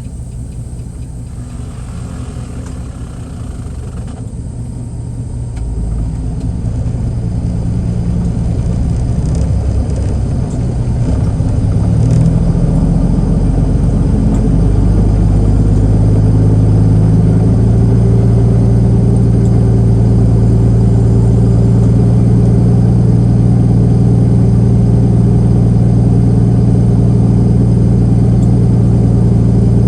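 Semi-truck's diesel engine pulling the truck forward from the pumps, getting louder and shifting in pitch over the first dozen seconds, then running steadily.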